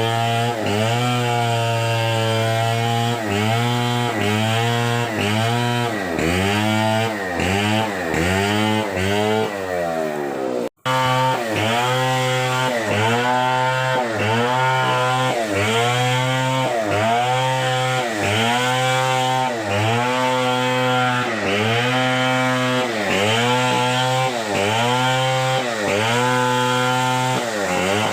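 Chainsaw cutting wood, its engine pitch dipping under load and recovering about once a second. The sound drops out for a split second near eleven seconds in.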